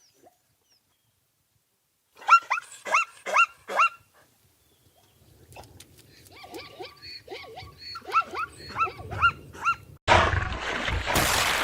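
An animal calling: a quick run of five short, pitched yelping calls, then after a pause a longer series of similar calls. About ten seconds in, a loud rushing noise starts suddenly.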